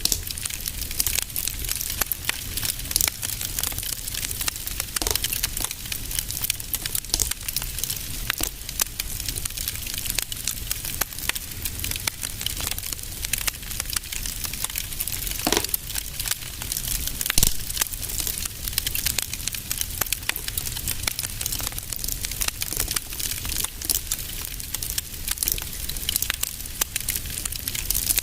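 Wood fire crackling in a fireplace: a dense, continuous patter of small crackles and pops over a low steady rumble, with one louder pop a little past the middle.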